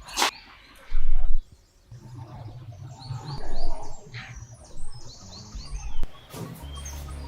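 Small birds chirping repeatedly, with a brief loud low thump about a second in.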